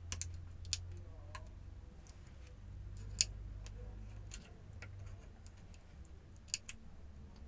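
Small, sharp clicks and taps at irregular intervals from hands and tools working on the plastic and metal parts of a laptop being taken apart, over a low steady hum.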